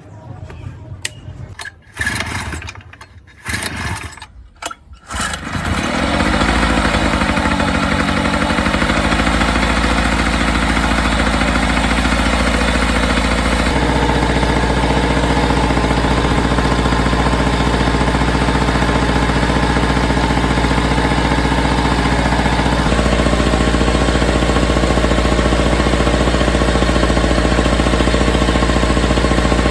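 Yamaha ET950 generator's small two-stroke engine being started: a few short bursts as it is cranked, then it catches about five seconds in and runs steadily, its note shifting slightly twice.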